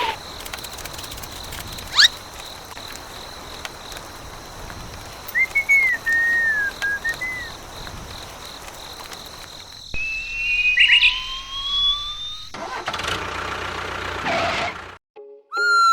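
Whistle-like sound effects over a steady noisy background: a quick rising whistle about two seconds in, a short wavering tone a few seconds later, two slow rising tones, and a falling slide-whistle glide at the very end.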